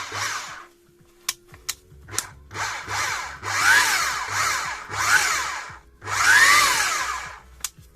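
Hilti TE 76 ATC combination hammer run in four short bursts, the motor spinning up and winding down each time, with a few sharp clicks in between.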